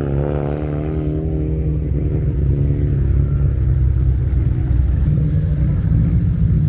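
Car engine running loud and low: the revs settle back down in the first second, then it holds a steady, rumbling idle.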